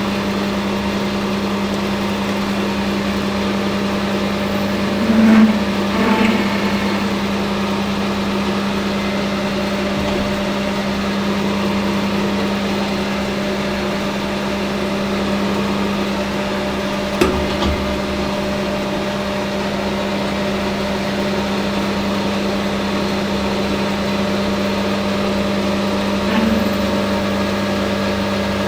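Hare and Forbes Hafco AL960B metal lathe running at speed with a steady hum, while a knob is parted off. It gets briefly louder twice about five and six seconds in, gives a sharp tick about seventeen seconds in, and swells slightly near the end.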